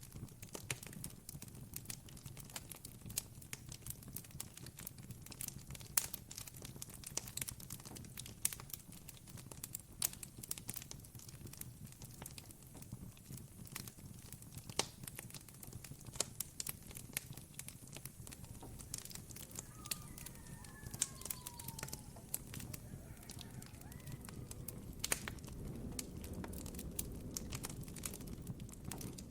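Campfire crackling: frequent sharp pops and snaps over a low steady rumble. A faint falling call from a distant animal comes about two-thirds of the way through.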